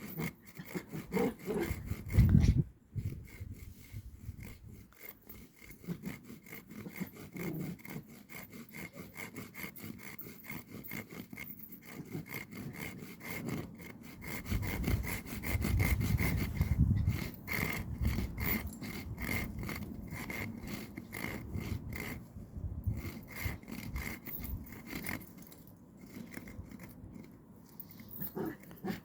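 Hand saw cutting through wood for firewood, a long steady run of back-and-forth strokes.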